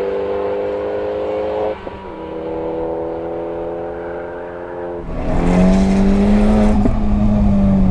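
Turbocharged Fiat Panda four-cylinder engine pulling hard at high revs, its pitch climbing slowly, with a brief dip about two seconds in like a gear change. About five seconds in the sound changes suddenly to a louder, deeper engine note.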